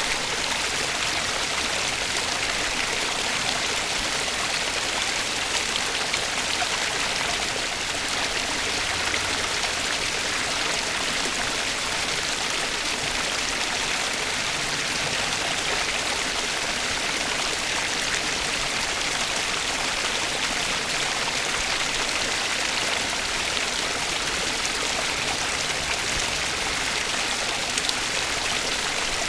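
Flowing water running steadily in an even, unbroken hiss, as of a stream.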